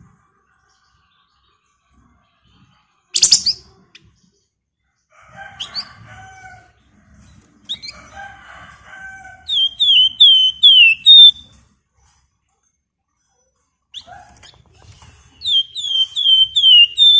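Flamboyan (wergan Jawa) songbird singing. A sharp loud call about three seconds in is followed by scratchy chattering phrases, and twice a rapid run of five or six high, down-slurred whistled notes.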